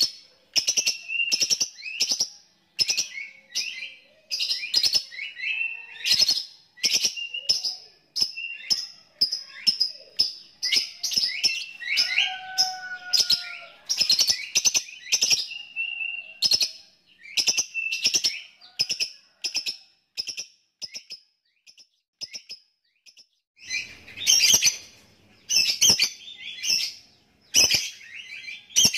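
Lovebird chattering (ngekek): a long, fast run of short, sharp, high chirps, broken by a pause of a few seconds about two-thirds through before it starts again.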